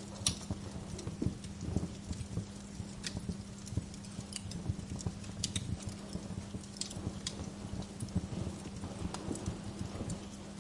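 Wood fire in a fireplace crackling, with frequent irregular pops and snaps over a low steady hum.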